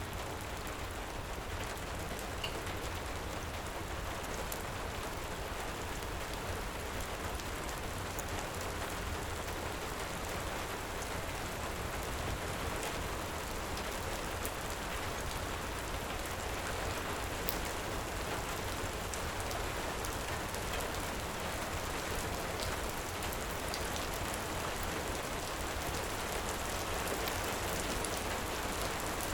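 Heavy rain falling steadily, with a low rumble underneath and scattered sharp crackles from a wood fire.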